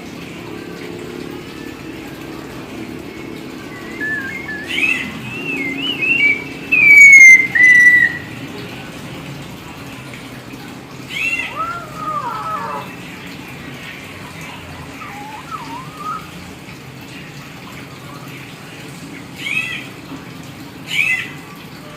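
Hill myna whistling and calling. A run of warbling whistles comes about four seconds in, the loudest a long falling whistle. Wavering calls and chirps follow, then two short sharp calls near the end, over a steady rushing background noise.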